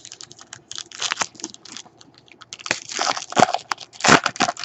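Foil trading-card pack wrapper crinkling and tearing as it is handled and opened, in irregular crackling clusters that get louder in the second half.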